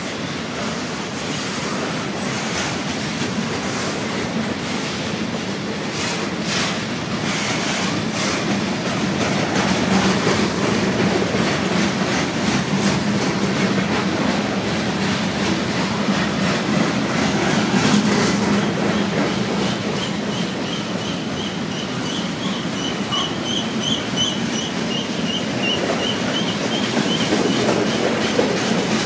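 Freight cars of a CSX manifest train (boxcars, covered hoppers and tank cars) rolling past: a steady rumble with the wheels clacking over rail joints. A high, steady squeal comes in about two-thirds of the way through and lasts until near the end.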